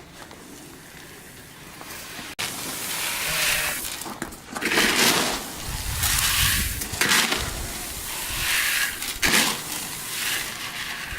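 Dry grain rustling and pouring in irregular noisy swells, with a sharp click a couple of seconds in.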